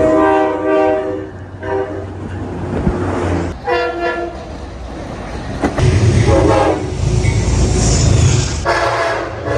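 Train horns sounding a multi-note chord in several blasts, with a loud rumble of a passing train from about six to nine seconds in.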